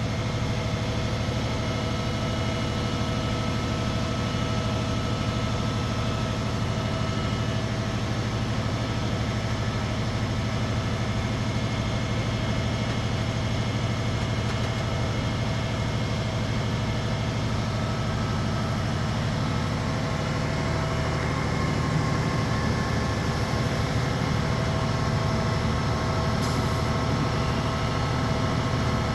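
Crane truck's engine running steadily at a low, even pitch while it lifts a rooftop air-conditioning unit, getting slightly louder about three quarters of the way through.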